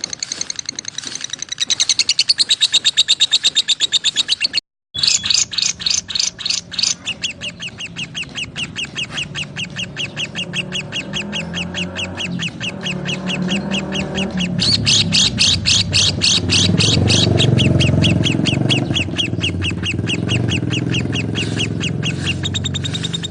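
Lovebirds chirping in a fast, even run of sharp high chirps, about six a second, with a brief break in the sound about five seconds in. A lower rumble of background noise grows underneath in the second half.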